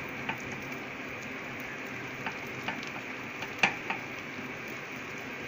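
Marinated chicken pieces sizzling steadily as they fry in melted butter and oil in a nonstick pan, with a few sharp ticks, the loudest a little past halfway.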